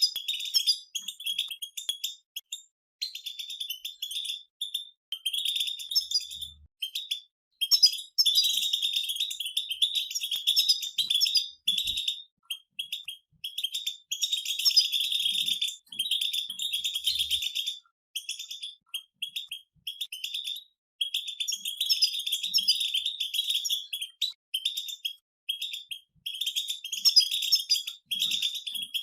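A group of European goldfinches twittering together in fast, chattering song, in runs of a few seconds broken by brief pauses.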